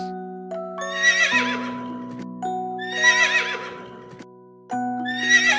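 Horse whinnying three times, each call about a second long and quavering, over gentle background music with mallet-percussion notes.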